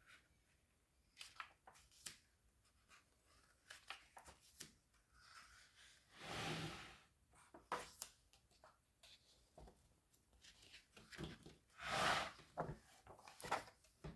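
Pages of a book being turned by hand: two papery swishes, one in the middle and one near the end, with light taps and paper handling between them.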